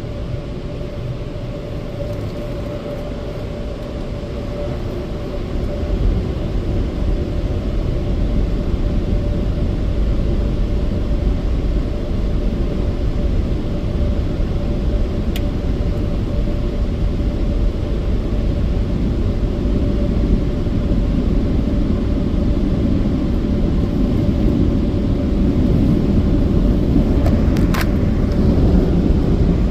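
A car running and moving off from a wash bay: a steady low rumble with a constant hum, growing louder about six seconds in.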